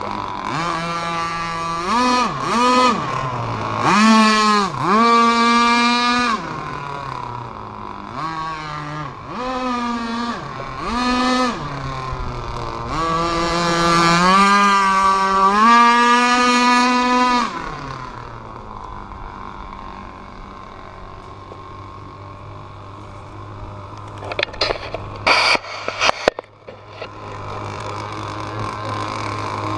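Rev Unlimited 26cc two-stroke RC boat engine, lightly modified, blipped up and down in repeated revs for most of the first 18 seconds, then settling to a steady idle. A few sharp clicks come near the end while it idles.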